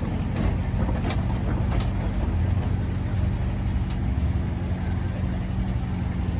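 A motor vehicle's engine running steadily, with a few sharp clicks in the first two seconds.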